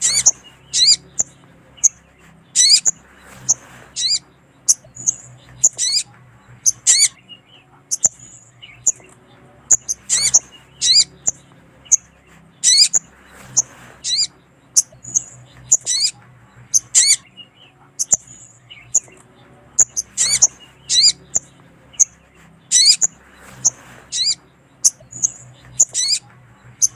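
Sogon bird calling: short, sharp, high chirps repeated every half second to a second, some in quick clusters, over a faint low steady hum. These are female sogon calls of the kind used to lure wild males.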